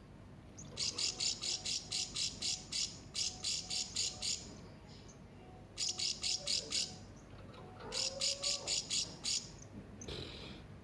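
Hanging parrot (serindit) calling: rapid runs of high, sharp chirps, about six a second, in four bursts.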